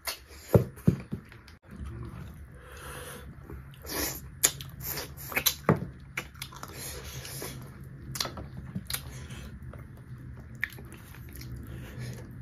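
Close-miked eating of beef curry and rice by hand: wet chewing and lip-smacking, with sharp mouth clicks scattered throughout, the loudest about half a second in.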